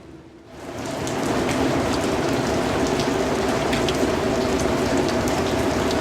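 Steady rain falling on a surface, a dense hiss with scattered individual drop ticks. It starts very low and swells back to full level within about the first second.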